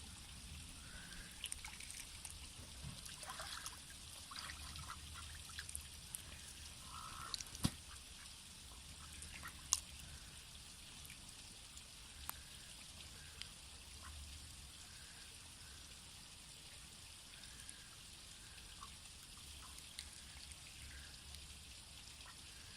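Ducks giving soft, short quacks now and then while bathing, over faint trickling water, with a few sharp ticks from splashing or bills.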